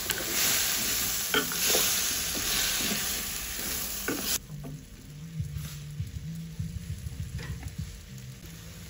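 Vegetables sizzling in hot oil in a wok while a spatula stirs them, scraping and clicking against the pan. About four seconds in, the sizzle cuts off abruptly, leaving a faint low hum with soft low knocks.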